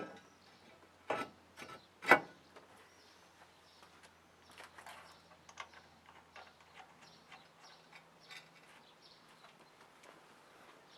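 Two sharp knocks about one and two seconds in, the second the louder, then faint scattered clicks and ticks over a low steady hum.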